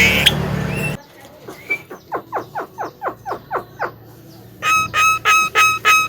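A louder passage cuts off about a second in, then a Javan myna calls: a quiet run of quick falling notes, about five a second, followed near the end by a loud call repeated evenly about two and a half times a second.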